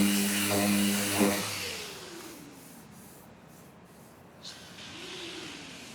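An electric power tool's motor runs with a hiss and is switched off about a second and a half in. It winds down, falling steadily in pitch. Near the end a fainter motor tone briefly rises and falls.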